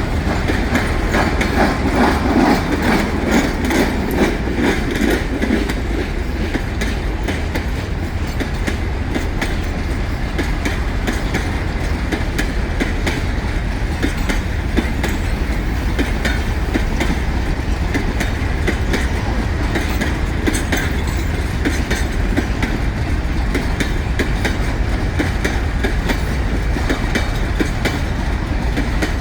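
Freight cars of a long train rolling past, their wheels clicking steadily over the rail joints over a continuous low rumble.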